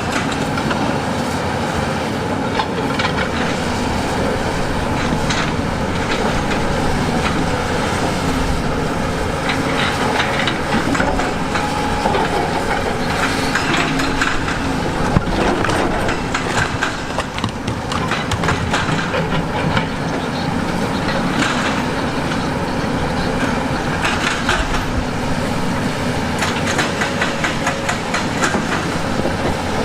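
Heavy tracked earthmoving machine working over rock: a diesel engine running steadily under a continuous clatter of metal track and bucket knocks and stone scraping.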